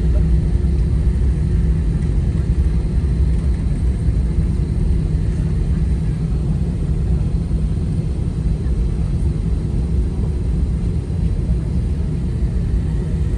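Steady low rumble inside an airliner cabin on the ground after landing, with a faint steady hum above it.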